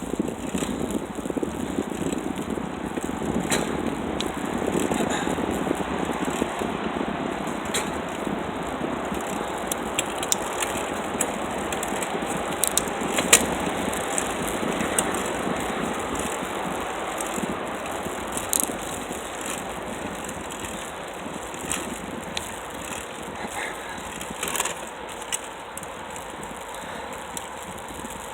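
Bicycle rolling along: a steady rush of tyre noise and wind, with the bike's parts rattling over bumps. There is one sharp clack about halfway through.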